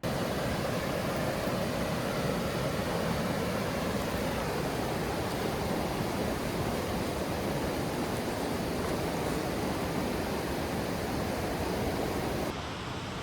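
Steady rush of a mountain stream's water, loud and unbroken.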